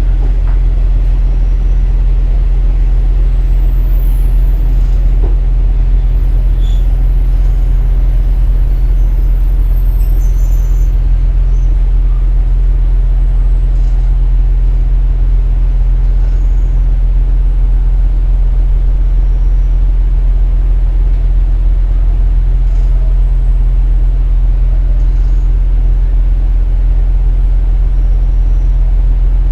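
KiHa 47 diesel railcar heard from inside the cabin: a steady, unchanging low diesel drone, with faint high squeals in the first third.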